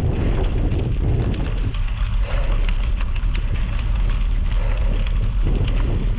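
Wind buffeting the microphone in a steady low rumble, with many small scattered crackles over it.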